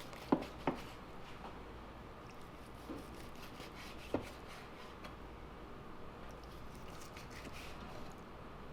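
A knife cutting smoked pork spare ribs apart, with a few sharp knocks of the blade, twice near the start and once about four seconds in.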